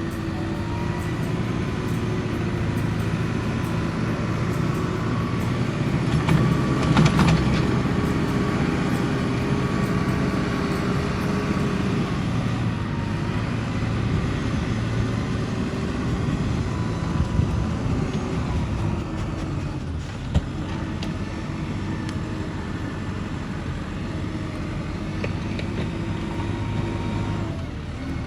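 New Holland T5060 tractor's diesel engine running steadily, its pitch drifting up and down. There is a louder, harsher stretch about seven seconds in, and a single sharp knock about twenty seconds in.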